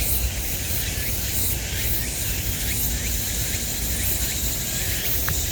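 Steady high hiss of summer insects with faint regular pulsing, over a low rumble of wind on the microphone.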